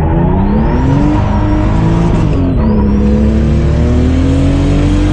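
Turbocharged BMW M50 straight-six in an E36 pulling hard at full throttle. The revs climb, drop with an upshift about two and a half seconds in, then climb again more slowly in the next gear.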